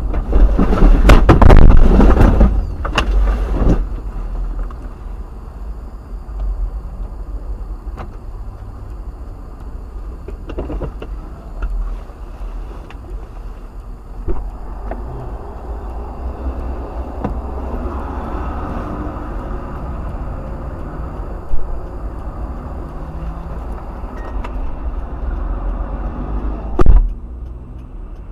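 Dash-cam recording of a car on the road: steady rumbling road and engine noise. A loud noisy burst lasting about three seconds comes near the start, and a few short sharp knocks follow, the loudest near the end.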